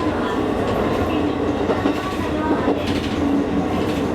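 Train in motion heard from inside the carriage: a steady rumble of wheels on the rails with a low, even hum.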